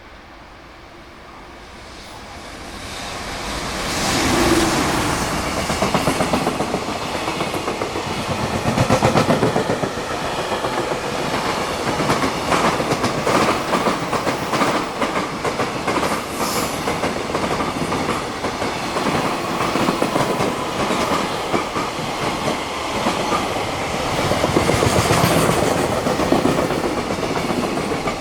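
Freight train hauled by an EF210 electric locomotive passing at high speed: the sound builds over the first few seconds into a loud, continuous rattle and clickety-clack of wagon wheels over the rail joints.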